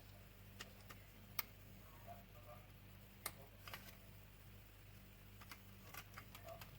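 Near silence with a low steady hum and scattered small sharp clicks and taps, the loudest about a second and a half in.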